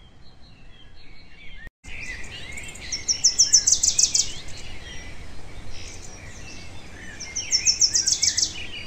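Wild birds calling: scattered high chirps and twice a loud, rapid trill of repeated high notes, over a steady background hiss.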